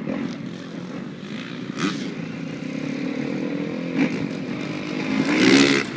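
Freestyle motocross bike engine running and revving, its pitch rising and falling with the throttle, the loudest rev about five and a half seconds in.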